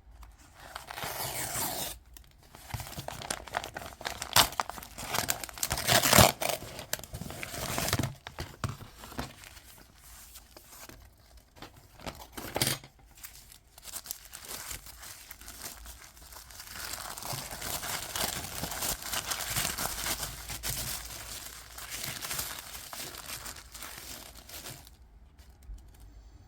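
Coin packaging being handled and torn open, with crinkling and rustling and a few sharp tearing noises, loudest in the first several seconds and again later, before it stops near the end.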